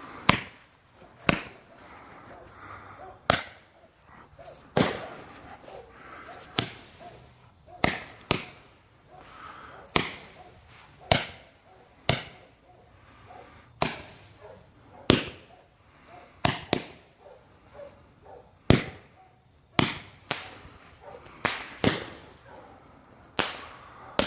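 Galaxy Warrior multi-shot firework cake firing: a string of sharp bangs, roughly one to two a second and sometimes in quick pairs, each with a short echoing tail.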